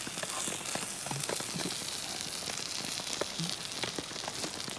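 Okonomiyaki sizzling on a hot griddle: a steady hiss with scattered crackles and small clicks.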